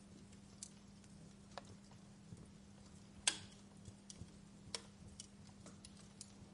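Wood fire crackling with scattered sharp pops and ticks, one louder pop about halfway through, over a faint steady low hum.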